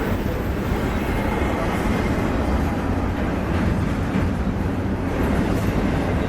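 Freight train rolling past at close range: a steady, even rumble of railcar wheels on the rails.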